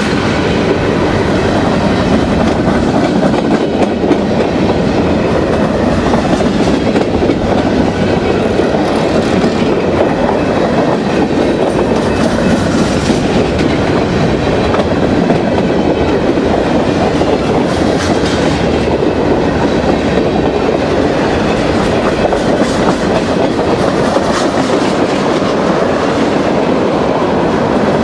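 Freight train of covered hopper cars and tank cars rolling past close by at steady speed: the steel wheels keep up a loud, even rumble on the rails, with clacking over the rail joints.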